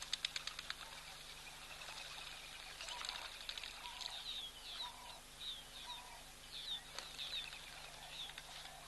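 Wild birds calling: a quick rattle of about ten clicks at the start, then a string of short chirps that each fall in pitch, repeated every half second or so through the rest.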